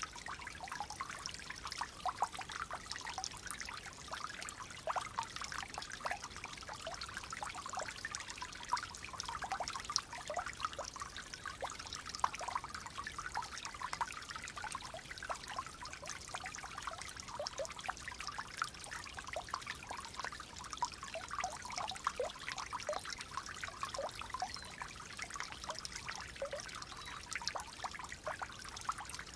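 Clear flowing water trickling and babbling steadily, with many small splashes and plinks through it.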